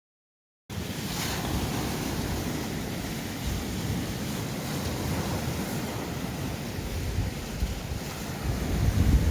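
Sea waves washing on a shore, with wind buffeting the microphone as a low rumble. It opens with a moment of dead silence, and a wave breaks about a second in.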